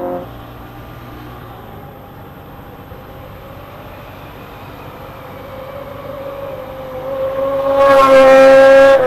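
Kawasaki ZX-25R's 250 cc inline-four engine screaming at very high revs. It is quieter at first, grows steadily louder to a loud, high-pitched wail near the end, then drops off suddenly.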